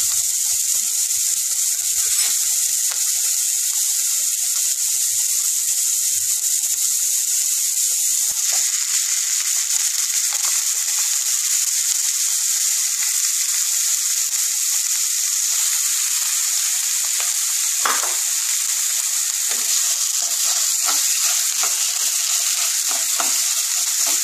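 Chopped onion, carrot and capsicum sizzling steadily in oil in a non-stick frying pan. From about two-thirds of the way in, a spatula scrapes and knocks against the pan as mashed boiled potato is mixed into the vegetables.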